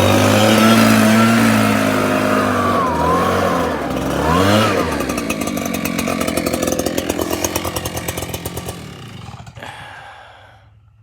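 Jonsered 90 two-stroke chainsaw on a chainsaw mill running at high revs. Its pitch dips and climbs again, then it settles into an even pulsing run that fades out near the end.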